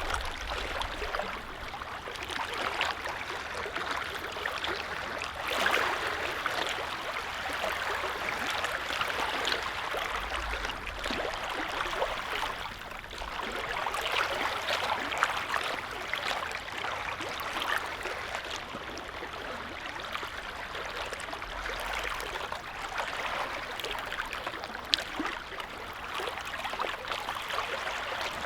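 Small waves on a calm lake lapping steadily, a continuous wash of many little splashes that swells and eases gently.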